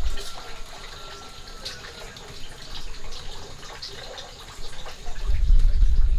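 Water running and splashing, with scattered small drips and clicks. A loud low rumble is heard at the very start and again from about five seconds in.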